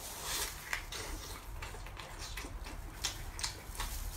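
A man biting and chewing a thick lean-meat sausage close to the microphone: wet mouth smacks and clicks at an uneven pace, a couple a second.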